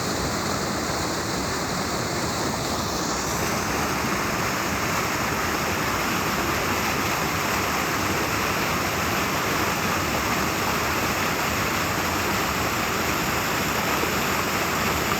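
Swift river current rushing steadily, a dense, even sound of fast-flowing water that grows a little fuller and brighter about three seconds in.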